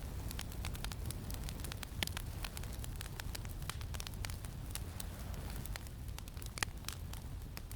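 Campfire crackling with frequent small sharp pops, two of them louder, about two seconds in and near the end, over a steady low wind rumble.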